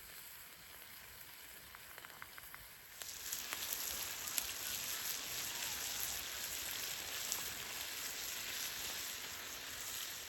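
Food sizzling and spitting in a hot frying pan, a steady hiss with small crackles that gets louder about three seconds in.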